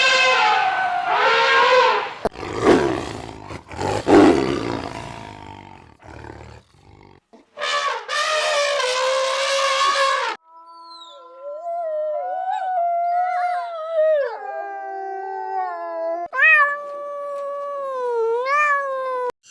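A series of separate animal calls one after another, including a rough roar a few seconds in, then pitched calls with gliding tones toward the end.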